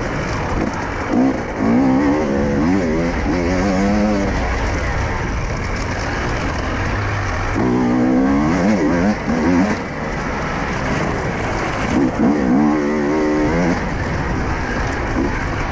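Husqvarna enduro motorcycle engine revving up and down repeatedly as the bike is ridden along a rough dirt trail, the pitch rising and falling in several surges over a steady rushing noise.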